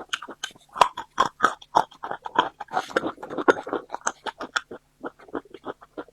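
Close-up chewing of food with wet, open-mouthed smacking, a quick irregular run of several smacks a second with a short pause about five seconds in.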